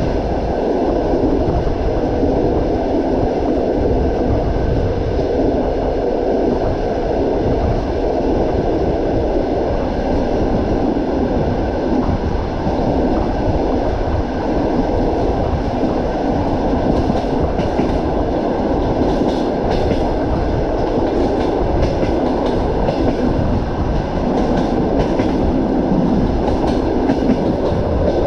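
Train running on the rails with a steady, dense rumble of wheels on track, and the clatter of the wheels; faint light clicks come in over it in the second half.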